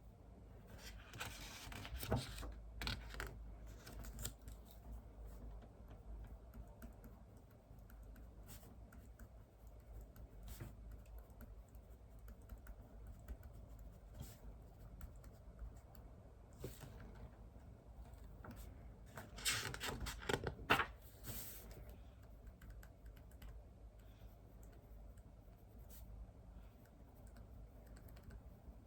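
Typing on a computer keyboard: quiet, irregular keystrokes throughout, with two louder, noisier stretches, one about two seconds in and another around twenty seconds in.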